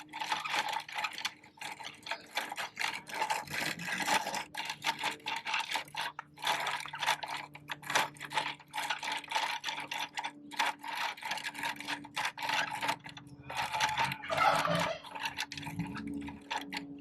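Bruder plastic toy side-loader garbage truck being handled, with rapid, irregular rattling and scraping of its plastic parts, broken by a few short pauses.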